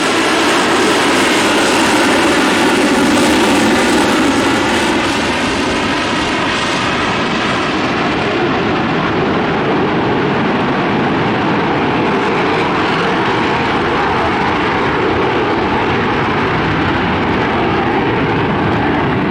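Loud, steady roar of a passing airplane with a sweeping, phasing sound over the first several seconds. After about seven seconds the high end fades as it moves away, though the rumble carries on.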